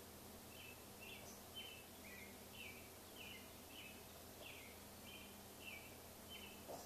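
Faint bird chirping: a short note repeated about twice a second, over a low steady room hum.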